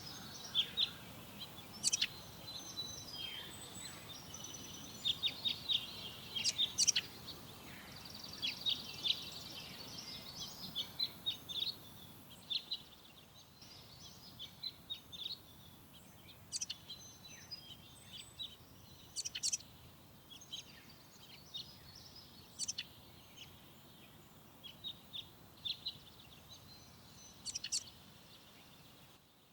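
Forest birds singing and chirping: many short, sharp high calls from several birds, with a fast trill about eight seconds in, over a soft steady background hiss.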